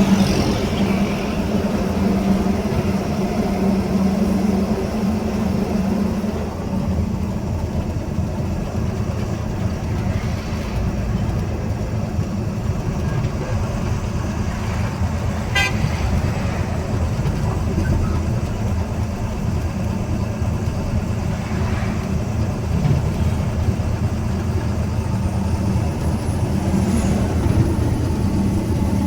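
Steady engine and road noise of a vehicle travelling on a highway, with a horn held for several seconds at the start and sounding again near the end.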